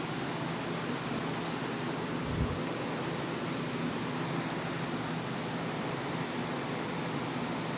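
A steady, even hiss with a faint low hum under it, and a brief soft low thud about two and a half seconds in.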